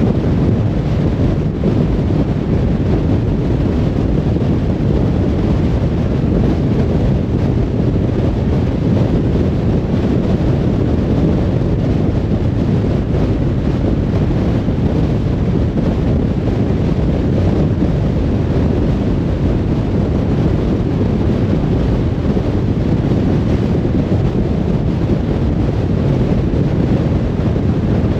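Steady low rumble of a car cruising on a motorway: tyre and wind noise, even throughout.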